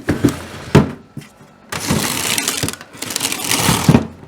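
Freezer drawers of a Hisense fridge freezer being pulled out and pushed back. There are a couple of knocks, then two scraping slides of about a second each, with a thud near the end.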